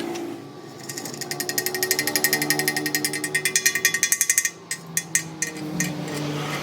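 Rapid, evenly spaced metallic strikes, about ten a second for three and a half seconds, like a pneumatic hammering tool, followed by a few separate knocks.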